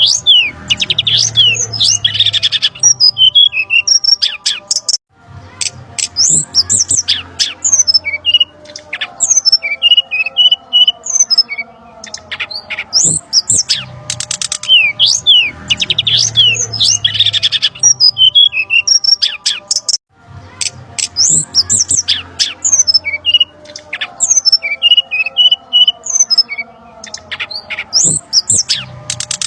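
Looped bird-lure recording of brown-chested jungle flycatcher calls, a busy mix of quick chirps and sharp whistled notes. The same passage repeats about every fifteen seconds, with a brief break at each restart.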